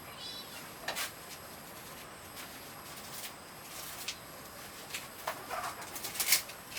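A brief bird chirp near the start, then scattered light clicks and knocks, with a sharp knock about six seconds in.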